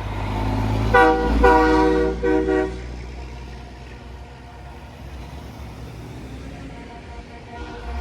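Truck air horn sounding three short blasts about a second in, over the low rumble of passing truck engines.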